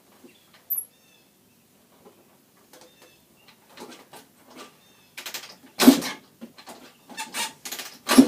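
Kick-starting a 1983 Honda CR80R two-stroke dirt bike that fails to catch: two loud thuds from kicks about six and eight seconds in, with no running engine after them. Faint bird chirps and small clicks come between.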